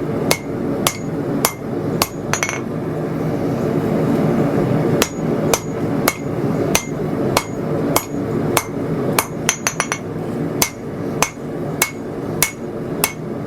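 Hand-hammer blows on hot steel over an anvil, about two a second, each with a short ringing note, drawing out the tang of a 2.5-inch-wide 80CrV2 blade. The blows stop for a couple of seconds after about two and a half seconds, then resume, with a quick flurry of taps about halfway through. A steady rushing noise runs underneath.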